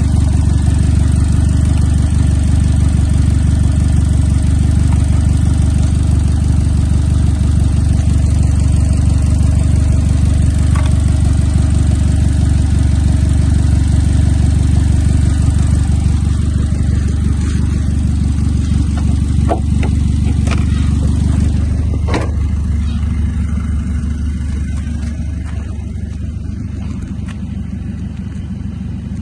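Opel Corsa D's 1.2-litre Z12XEP four-cylinder petrol engine running steadily on test. A few short clicks come around twenty seconds in, and after that it runs noticeably quieter.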